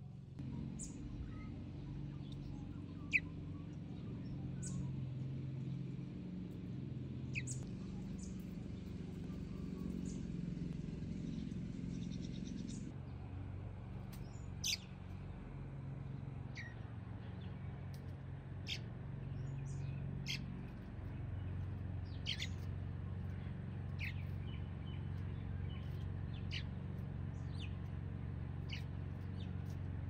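Birds chirping outdoors in short, sharp, high calls, one every second or two at irregular spacing, with the sharpest one a few seconds in. A low steady hum runs underneath.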